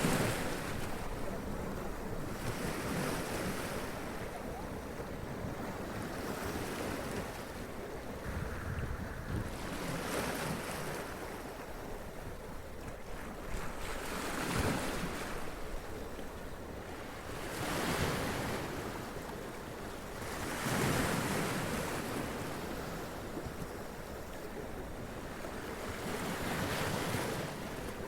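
Sea waves washing up onto rocks and splashing, one surge every few seconds over a steady roar of surf, with wind on the microphone.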